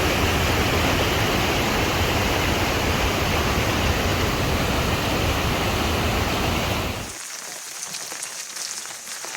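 Heavy rain falling in a steady, loud rush. About seven seconds in it cuts off suddenly to a much quieter background with faint crackles.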